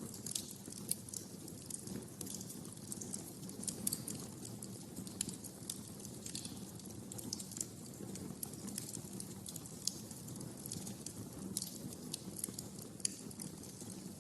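Wood fire crackling in a fireplace: irregular sharp snaps and pops over a steady low rumble of the flames, with a few louder pops standing out.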